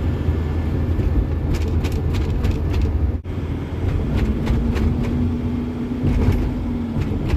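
Vehicle engine and road noise heard from inside the cab on a mountain road: a steady low rumble with light rattles. A steady hum joins it about four seconds in and fades near the end.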